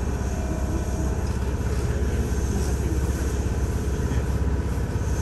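Kintetsu electric train running on the track: a steady low rumble of wheels and running gear heard from inside the car.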